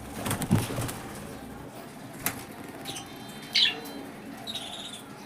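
Lovebirds: a flurry of wing flapping in the first second, then two short, high chirps a few seconds later.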